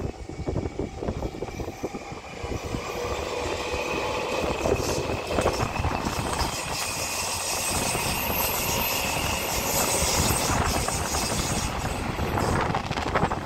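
Taipei Metro electric train running past, its noise building over the first few seconds and then holding steady, with a faint whine from the traction inverter and motors that climbs slightly in pitch.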